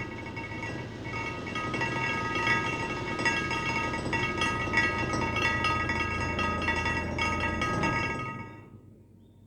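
Bell-like clinking tones in quick succession over a low hum, fading out about eight and a half seconds in to a faint background.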